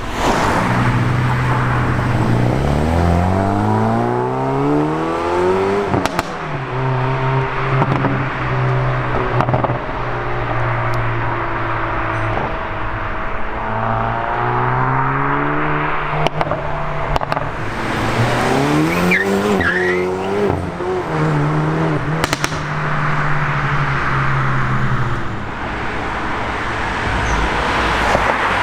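Hyundai i30N turbocharged four-cylinder engines revving and accelerating: the engine pitch climbs steeply twice and holds steady in between. Sharp exhaust crackles ring out at a few points, about 6, 16 and 22 seconds in.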